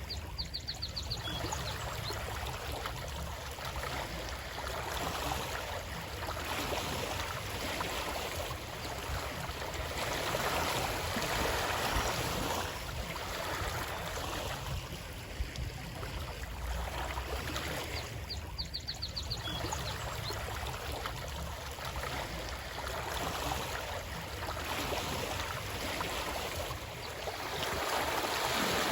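Running water: a steady rushing noise that swells and eases every few seconds. A brief quick run of faint high ticks comes near the start and again about two-thirds of the way through.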